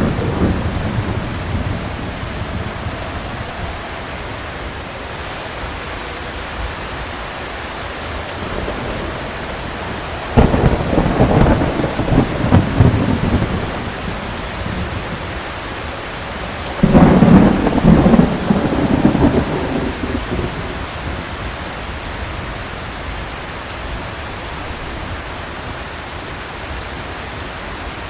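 Thunderstorm: heavy rain falling steadily, with two peals of thunder breaking in suddenly, about ten seconds in and again about seven seconds later, each rumbling for a few seconds before fading. The tail of an earlier rumble dies away at the start.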